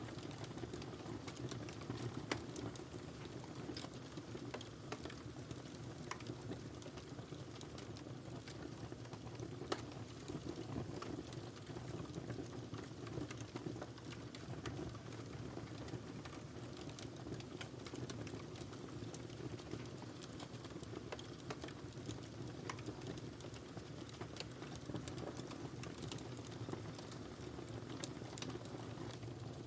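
Wood fire burning in a fireplace: a steady low rush of flames with irregular sharp crackles and pops of burning logs.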